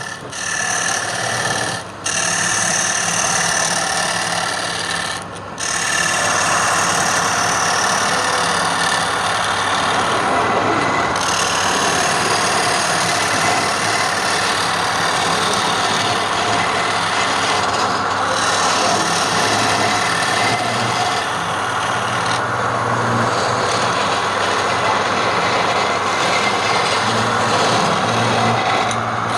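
A woodturning lathe with a tool cutting into the spinning wood, giving a steady rasping scrape. The cut breaks off briefly twice in the first six seconds, with a low motor hum underneath.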